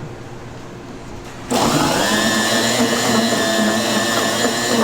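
A Dairy Queen Blizzard spindle mixer switches on about a second and a half in and runs steadily with a whine as it blends a Blizzard. Its pitch rises briefly as it starts, then holds level.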